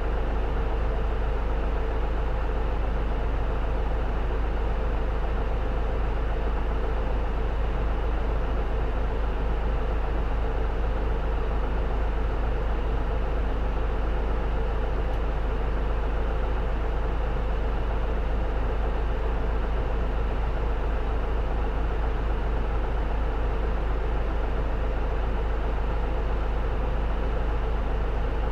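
Diesel engine of a J-Bus PKG-LV234L2 city bus heard from inside the cabin, running at a steady, even pitch with a deep rumble and a constant hum. Nothing changes, so neither revving nor gear changes are heard.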